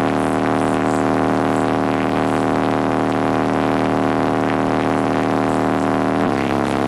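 Music through a loud car audio system: a held, unchanging bass-heavy synth note with overtones, stepping down to a lower held note about six seconds in.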